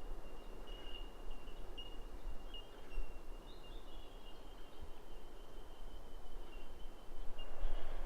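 Quiet bush ambience: a faint, steady high-pitched tone that wavers slightly, over a low fluttering rumble.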